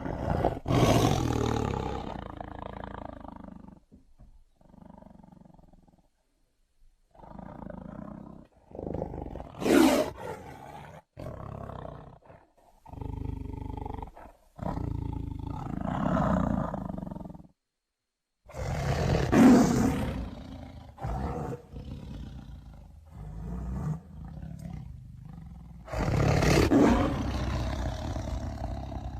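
Bengal tiger roaring and growling in a series of separate calls with short pauses between them; the loudest roars come about a second in, near ten seconds, near twenty seconds and about twenty-six seconds in.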